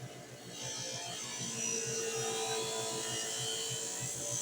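Knife edge held against a spinning white cloth buffing wheel, a steady whirring hiss over the motor's hum that starts about half a second in, cleaning the green buffing compound off for a mirror finish.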